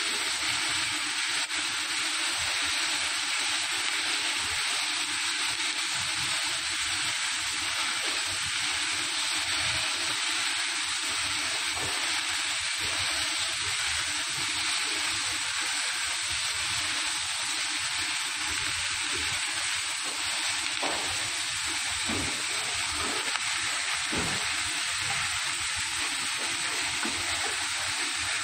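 Vegetables sizzling steadily as they stir-fry in the rotating drum of an automatic gas-fired cooking machine, with the food tumbling and knocking irregularly against the pan.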